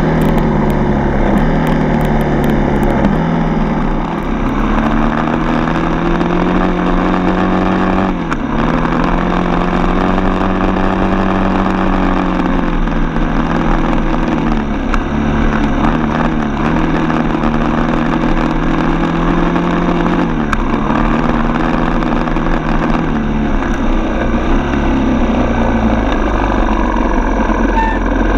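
Dirt bike's four-stroke single-cylinder engine running under way, its pitch rising and falling with the throttle. It drops off briefly twice near the start.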